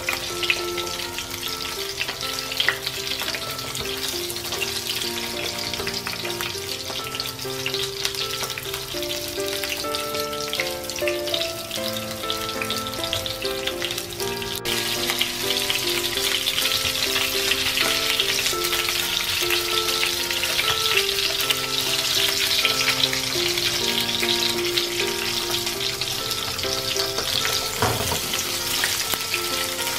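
Breaded fish fillets sizzling and crackling in hot oil in a frying pan, louder in the second half. Background music with a melody plays along.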